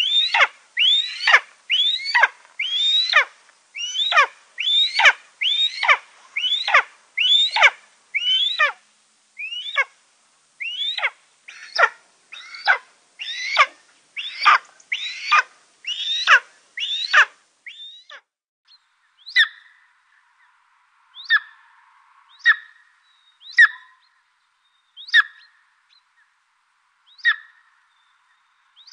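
Eastern imperial eagle calling: a rapid run of loud barking calls, a little more than one a second, each falling steeply in pitch. About 17 seconds in, this gives way to a golden eagle's sparse short high calls, one every second or two.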